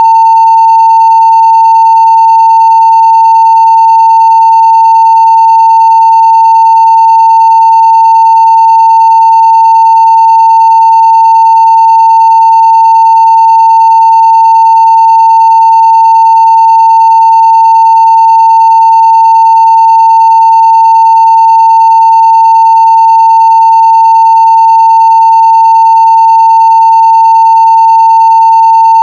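Continuous 900 Hz sine-wave test tone at full scale (0 dB), perfectly steady and unbroken, with faint higher overtones.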